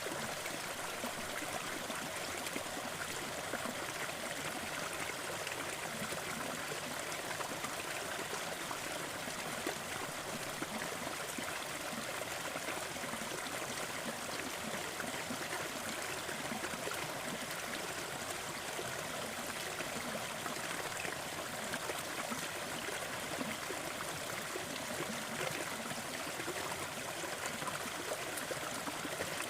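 Small forest waterfall splashing and trickling steadily, an even rush of water without any change.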